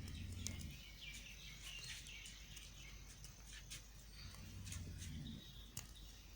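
Knife cutting a bar of soap: scattered crisp clicks and crackles. Birds chirp in the background, and a low hum swells twice, at the start and about two-thirds of the way through.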